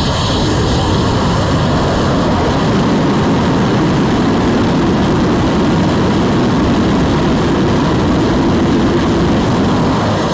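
Kerosene and liquid-oxygen rocket engine firing steadily during a static hot-fire test: a loud, even rumble and hiss with no change in level.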